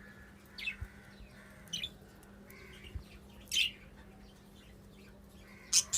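Pet parrots giving about five short, high chirps about a second apart, the loudest two near the middle and just before the end.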